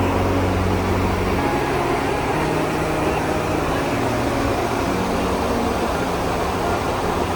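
Steady rushing cabin noise of a Boeing 747SP in flight, airflow and engine sound with no breaks, under a few faint low tones that shift in pitch every second or so.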